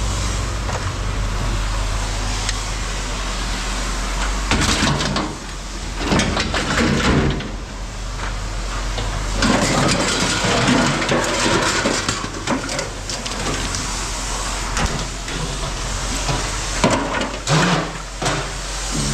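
A vehicle engine running steadily, with a low hum that changes about four seconds in. Over it come irregular knocks and scraping noises.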